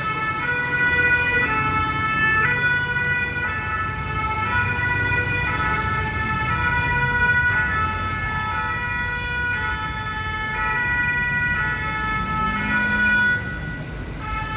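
Two-tone siren of a Paris Fire Brigade truck, switching back and forth between a high and a low note about once a second, over the truck's engine and road noise. A brief low hum rises and falls near the end.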